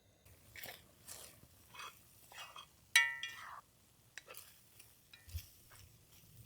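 Small clinks and handling sounds of tableware, with one sharp ringing clink about three seconds in.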